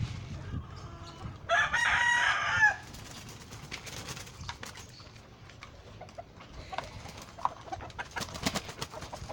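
Game fowl rooster crowing once, about a second and a half in, for a little over a second, with chickens clucking and scattered sharp clicks and taps afterwards.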